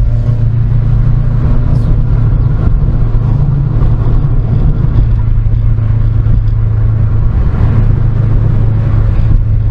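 Car engine running at a steady cruise, a constant low drone that holds its pitch with no revving or gear changes.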